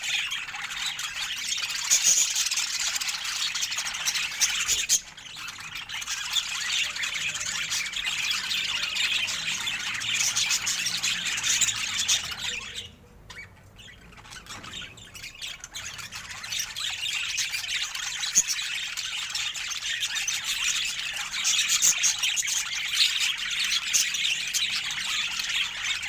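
Budgerigars chattering and squawking in a dense, continuous stream of high calls that drops away briefly about halfway through.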